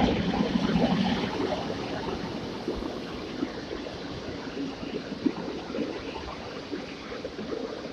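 PKP Intercity passenger train hauled by an EP07 electric locomotive rolling past: a steady rumble of wheels on rails with a few clicks. It is loudest in the first second as the locomotive passes, then eases a little as the carriages go by.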